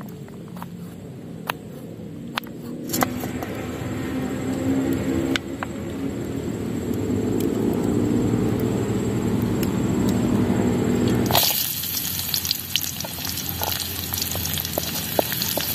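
A few sharp knife clicks as ginger is chopped on a wooden board. Then comes a low rushing noise, and about eleven seconds in sliced shallots and garlic hit hot oil in the wok and start sizzling and crackling.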